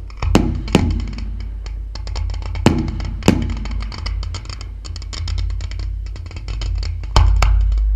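Aerial fireworks shells bursting with sharp, irregular bangs, several in the first few seconds and the loudest about seven seconds in, with dense crackling between the bursts over a low rumble.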